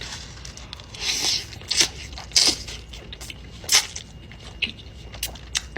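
Close-miked eating of creamy fettuccine Alfredo: wet chewing with sharp lip and mouth smacks, coming every second or so.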